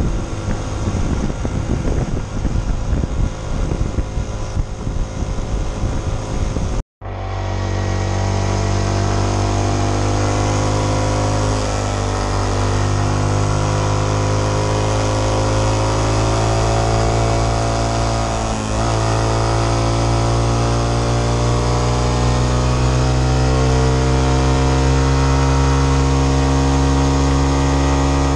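Honda CT125's single-cylinder engine running while riding. Wind buffets the microphone for the first several seconds. After a split-second cut to silence, the engine's drone is clear and even, rising and falling slightly in pitch, with a brief dip about two-thirds through.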